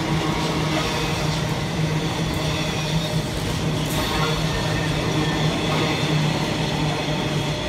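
Container flat wagons of a freight train rolling past at speed: a steady rumble of steel wheels on the rails, with a continuous low hum.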